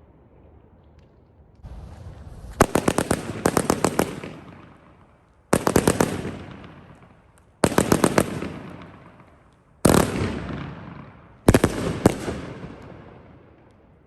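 A 25-shot, 500 g angled firework cake firing: about 2.5 seconds in, a rapid string of sharp bangs, then four more volleys about two seconds apart. Each volley is a few quick cracks followed by a fading tail.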